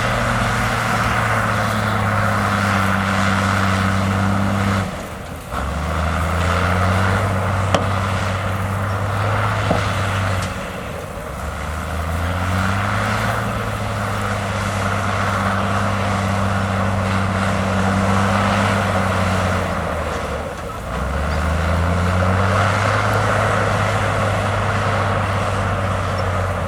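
Komatsu crawler bulldozer's diesel engine working under load, with a steady rattling noise over it. The engine note dips briefly and climbs back three times, about every five to ten seconds.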